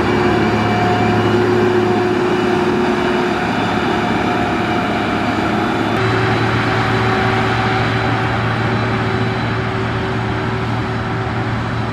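Heavy construction machine's engine running steadily, a low hum with a mechanical rumble; the engine note changes abruptly about six seconds in.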